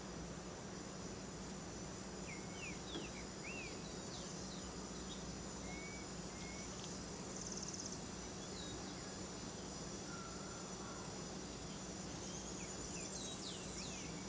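Steady high-pitched insect chorus over a low steady hum, with scattered short bird chirps and whistles, clustered about two to four seconds in and again near the end, and a brief buzzy trill around the middle.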